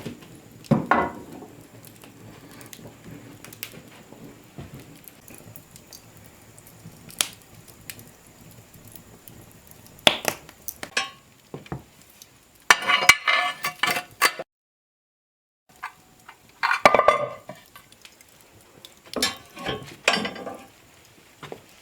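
Dishes and metal utensils clinking and clattering in several short bursts, with scattered small clicks between them and a brief dead gap near the middle.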